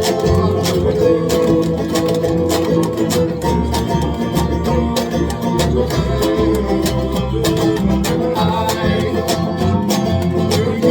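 Live folk band playing an acoustic song: steadily strummed guitar and other plucked strings.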